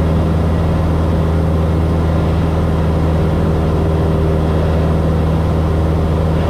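Cockpit drone of a Cessna 172S's Lycoming IO-360 four-cylinder engine and propeller, running steadily in flight at about 130 knots on approach.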